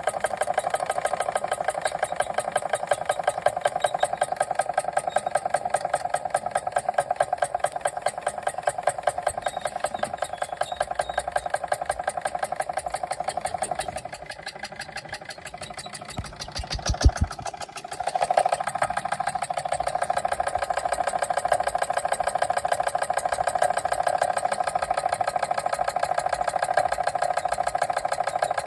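Machinator Steamfire model steam engine running fast with a rapid, even beat. It dips quieter for a few seconds past the middle, with a sharp knock, then picks back up to the same steady running.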